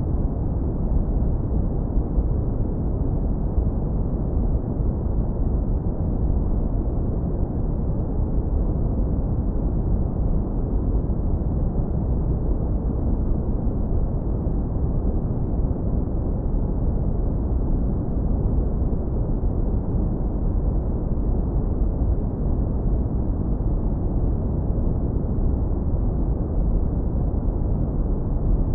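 Steady, continuous brown noise, low-pass filtered so that only a deep, warm rumble remains, with nothing above the low end.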